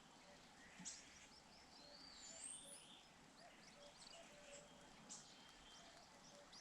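Faint outdoor birdsong: a high warbling phrase about two seconds in, with scattered short chirps and a few faint low notes over a steady background hiss.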